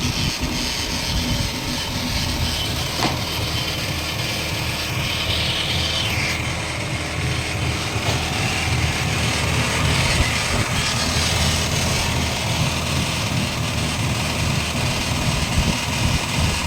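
Worn-out wheel bearing on a Holden Barina TK, heard as a steady low hum under the car's road and engine noise while it is moving, with a hiss that swells twice along the way.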